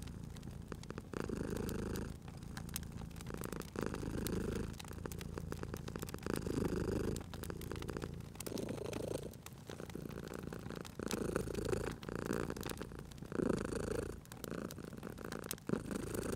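Domestic cat purring steadily, swelling and easing with each breath about every two and a half seconds, over the soft crackle and pops of a wood fire.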